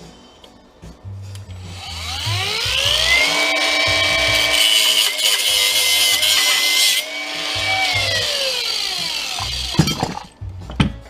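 Electric power saw spinning up, cutting into a jump-starter's casing for several seconds, then winding down. A few knocks follow near the end.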